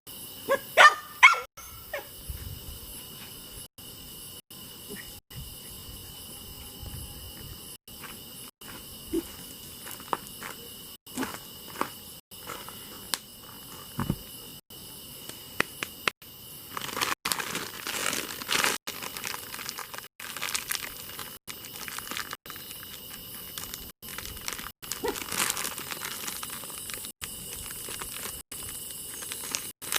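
Wood fire crackling and popping, the crackle growing denser about halfway through, over crickets chirring steadily. A dog gives a few short yelps about a second in.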